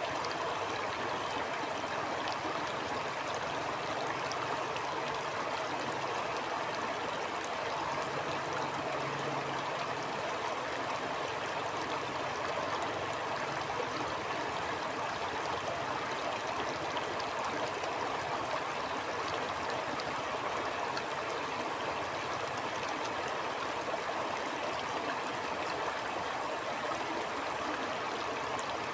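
Stream flowing steadily: an even, unbroken rush of water with scattered faint ticks of small splashes.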